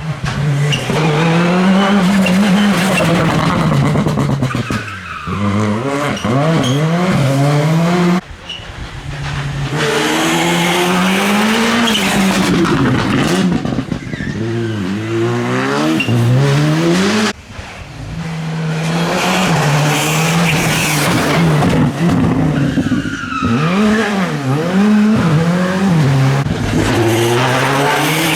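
Rally car engines revving hard, the pitch climbing and dropping again and again through gear changes and lifts. The sound breaks off sharply about 8 and 17 seconds in, then picks up again with another car.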